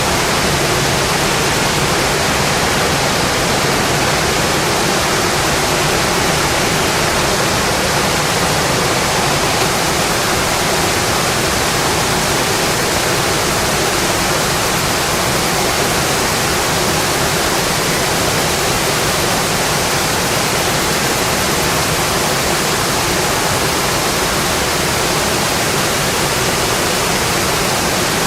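Steady rain pattering on a windowpane: a dense, even hiss with no change in strength.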